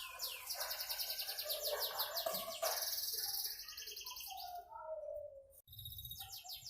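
Domestic canary singing: long runs of rapid, high trills mixed with lower warbled notes. The song breaks off about five seconds in and starts again just before the end.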